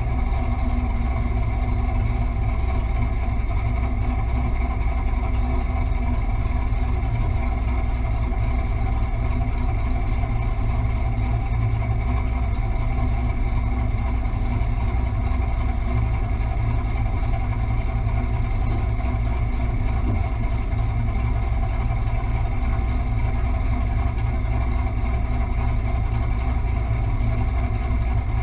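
Fox-body Ford Mustang's engine idling steadily, a deep even drone with no revving.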